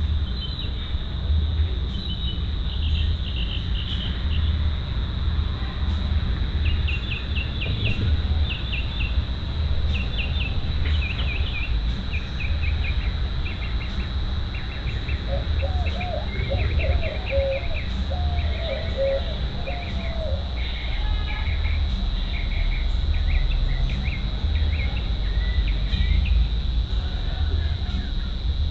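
Crickets trilling in one steady high-pitched drone, with birds chirping in quick repeated series over it and a lower bird song for several seconds midway. A constant low rumble runs underneath.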